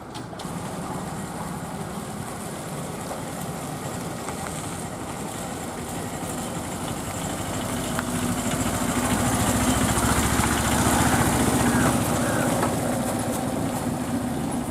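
Small cargo truck's engine running, growing louder about halfway through as the truck comes close, then easing off near the end.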